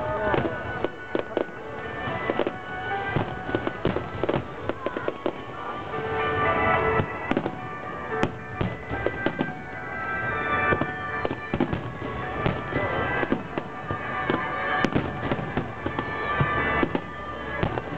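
Fireworks going off in rapid, irregular succession, sharp bangs and crackles with music playing beneath them.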